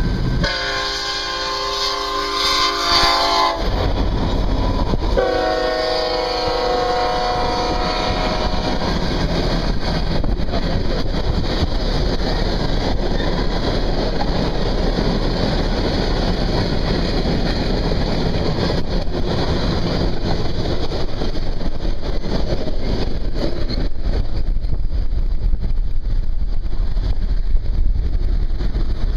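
Locomotive air horn sounding two long blasts, the second fading out, followed by the steady rumble and clatter of a train rolling past on the rails.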